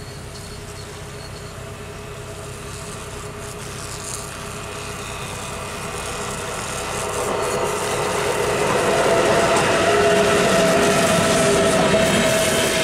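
VR double-deck passenger train rolling in along the platform and passing close by, its wheels on the rails getting steadily louder, with a steady whine over the rumble.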